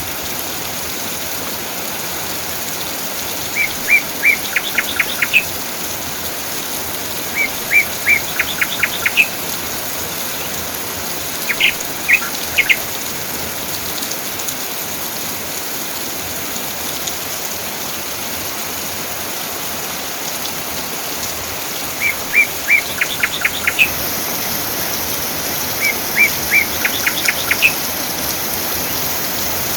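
Steady rain falling, with a songbird singing the same short phrase about five times: a few clear notes followed by a quick run of notes.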